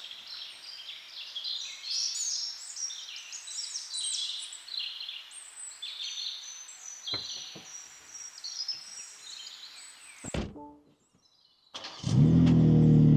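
Songbirds chirping and singing, with a few low thumps, then a break of silence. About twelve seconds in, the new BMW M2's twin-turbo inline-six starts up and runs loudly.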